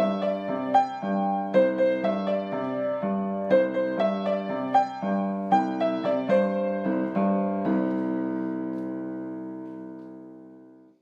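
Solo piano music playing a gentle repeating figure of notes, ending on a held chord that slowly fades out.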